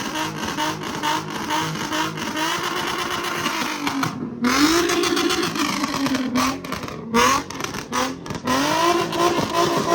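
Infiniti G37's V6 engine being revved hard over and over through its exhaust, the pitch climbing and falling with each rev.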